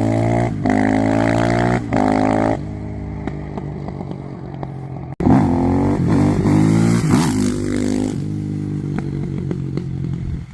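Suzuki RM-Z450 supermoto's single-cylinder four-stroke engine accelerating hard. Its pitch climbs in repeated sweeps, with brief breaks between them like gear shifts. There is an abrupt break about five seconds in, then more revving that eases off toward the end.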